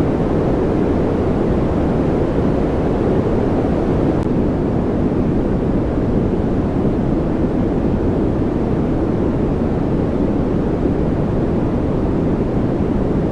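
Steady, unchanging white-noise track, weighted toward the low end so it comes across as a deep, even rush rather than a bright hiss.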